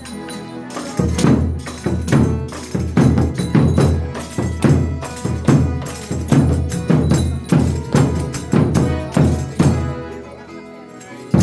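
Folia de Reis folk troupe playing, with percussion keeping a steady beat; the playing dies away near the end, then a new strike comes in.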